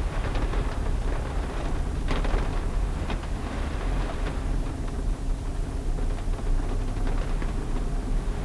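Car driving through heavy typhoon rain: a steady low engine and road rumble, with a few short bursts of hiss about two to four seconds in.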